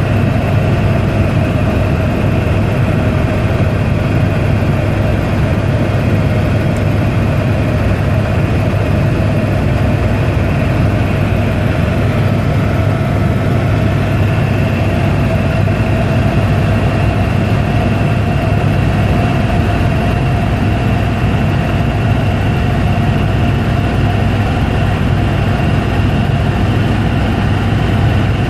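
Helicopter in flight: steady, loud engine and rotor noise, a low drone under a higher steady whine, with no change in pitch.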